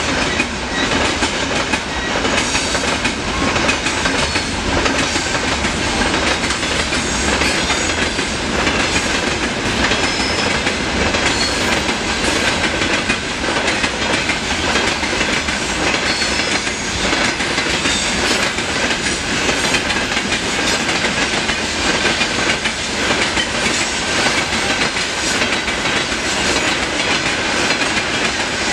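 Freight train wagons, open gondolas, boxcars and tank cars, rolling past steadily, their wheels clattering on the rails in a continuous, even rolling noise.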